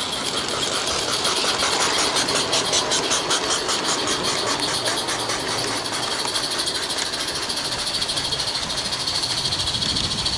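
A small garden-railway locomotive running on the track with a fast, even beat that fades out about halfway through, over a steady high hiss.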